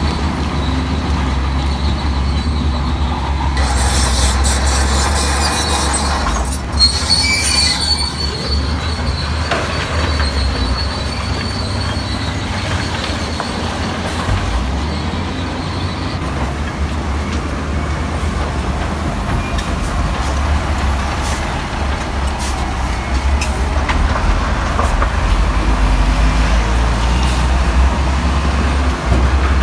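Heavy diesel construction machinery running with a low, steady rumble. A high metallic squeal starts a few seconds in and lasts about ten seconds.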